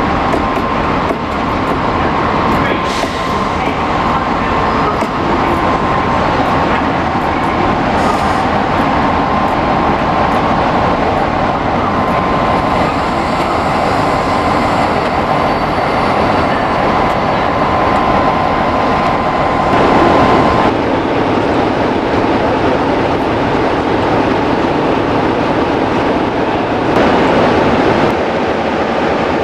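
A train running past at close range with a steady loud rumble. A steady high whining tone runs with it and stops about twenty seconds in, where the sound changes.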